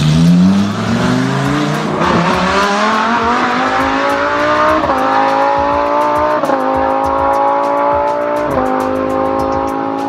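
Engine sound effect of a vehicle accelerating through the gears: a rising engine note that drops back at each shift, four times, then climbs slowly again.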